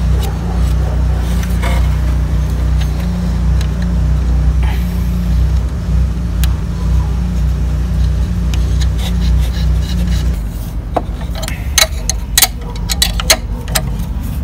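A steady low engine drone, a motor vehicle idling, which cuts off about ten seconds in. It is followed by a quick run of sharp metallic clicks and taps as a metal strap clamp in the engine bay is worked by hand.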